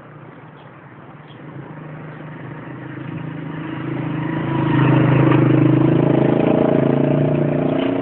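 A motor vehicle engine running at a steady pitch. It grows louder over the first few seconds as it comes closer, then stays loud.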